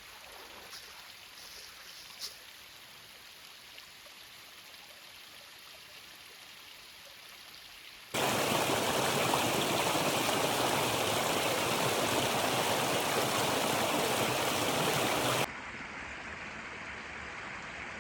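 Creek water running, faint at first. About eight seconds in it turns much louder and closer for some seven seconds, then cuts off abruptly to a softer steady rush.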